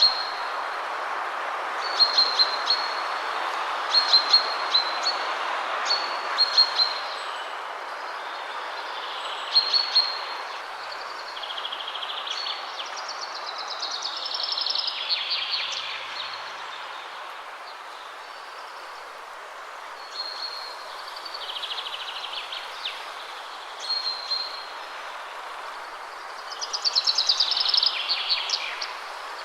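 Wind rushing through trees, with songbirds singing over it. The birds give repeated short high chirps and, about halfway through and again near the end, a longer trill that falls in pitch. The wind is steadier and louder in the first half.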